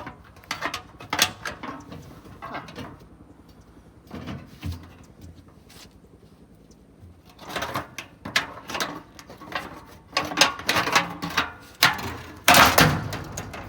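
Metal clanks, scrapes and tool clicks from hand work on exhaust parts, coming in irregular clusters, with the loudest clatter near the end.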